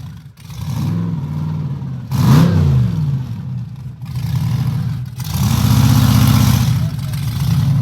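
Off-road mud truck's engine revving hard in repeated bursts, the pitch climbing and dropping several times. The longest and loudest rev comes about five to seven seconds in.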